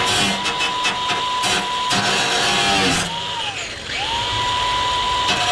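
High-speed power cutting tool whining steadily as it cuts sheet steel along a marked line, with harsh grinding bursts as the wheel bites. The motor slows under load about three seconds in, then spins back up.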